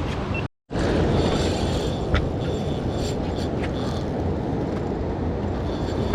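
Steady wind rush on the microphone and the wash of sea waves around a small fishing boat, with a few faint ticks. The sound cuts out completely for a moment about half a second in.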